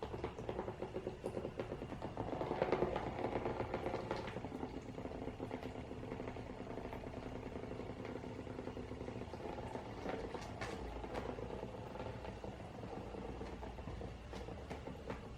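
A fast, steady mechanical rattling whirr from work on a removed front suspension strut on the workbench. It is loudest about three seconds in, then goes on evenly.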